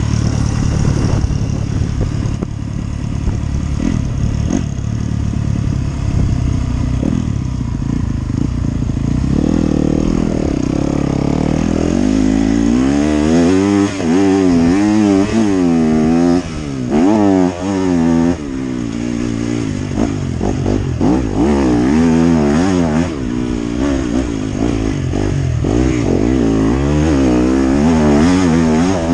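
Motocross motorcycle engine, loud throughout. It runs at a low steady note at first, then from about twelve seconds in it revs up and down again and again as it accelerates and shifts.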